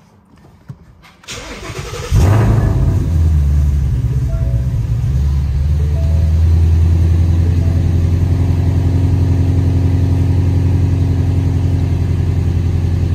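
Ford Shelby GT350's 5.2-litre flat-plane-crank V8 cranked by the starter and catching about two seconds in, flaring briefly and then settling into a steady idle, heard from inside the cabin.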